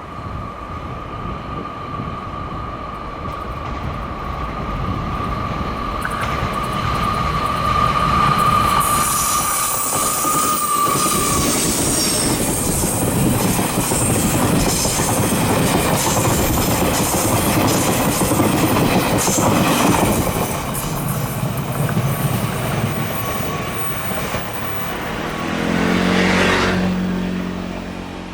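Taiwan Railway's Ming Ri tourist train passing close by on the line. A steady high whine runs for the first ten seconds or so, then the running noise of the cars swells to a loud peak and slowly fades. A low pitched hum sets in near the end.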